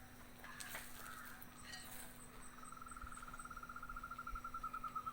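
A faint, even, rapid trill of about a dozen pulses a second from a small animal, starting about two and a half seconds in, with a few brief clicks before it.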